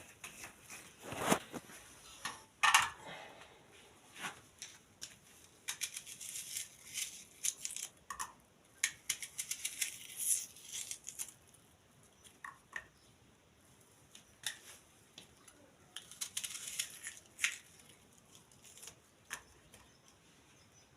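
Scattered clicks, knocks and rustling of objects being handled, irregular and busiest in the first half.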